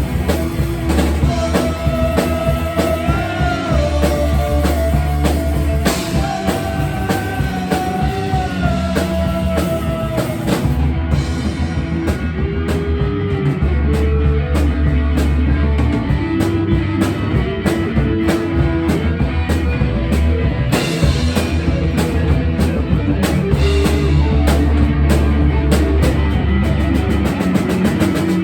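Rock music with drums, bass and guitar, a held, gliding melody line over the top in the first ten seconds or so.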